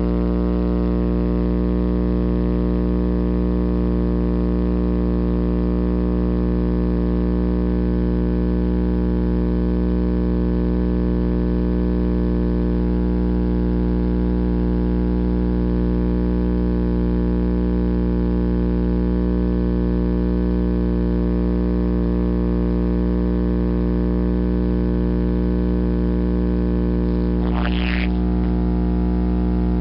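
Car audio subwoofer system holding a steady, distorted low bass tone, with a brief wavering higher sound near the end.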